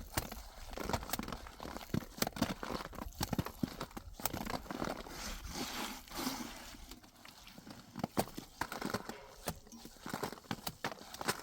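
A series of irregular, sharp knocks and clacks, several a second at times, over a rustling background.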